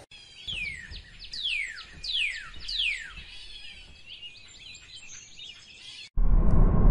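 A bird calling in a quick series of high whistles, each sliding steeply downward, followed by fainter chirps. Near the end it cuts abruptly to a loud steady rushing noise.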